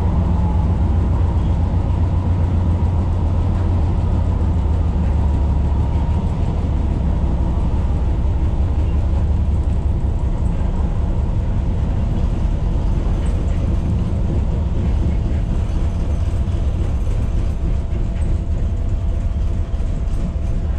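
Tyne & Wear Metro train running between stations, heard from inside the passenger carriage: a steady low rumble of the wheels and running gear with a faint steady whine above it. The rumble eases slightly about six seconds in.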